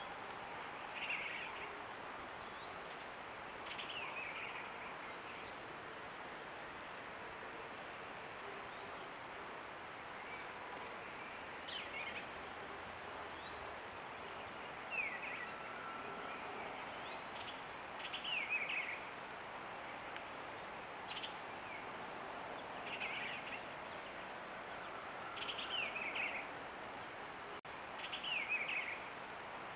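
Steady background hiss, with a bird giving short, falling chirps every two to three seconds, often two or three in a row. A faint, steady, high-pitched electronic whine runs underneath.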